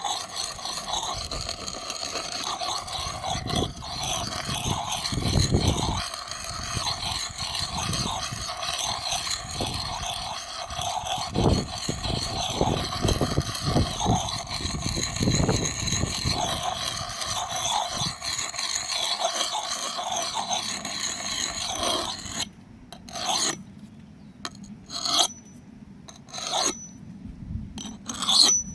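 Steel hatchet blade being ground on a concrete stepping stone, a continuous gritty scraping that wears metal off onto the concrete. About 22 seconds in the grinding gives way to a handful of short separate strokes.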